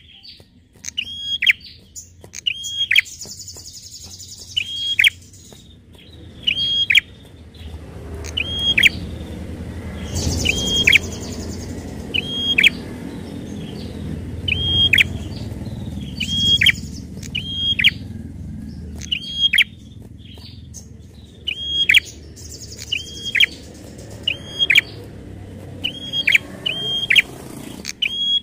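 Prinia (prenjak) calling: sharp, high calls about once a second, with short buzzy chatters every few seconds. A low rumble runs underneath through the middle.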